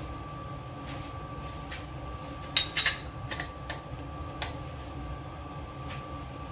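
A few sharp clinks and knocks of cookware being handled, loudest about two and a half seconds in, with a couple more over the next two seconds, over a steady low rumble and a faint steady whine.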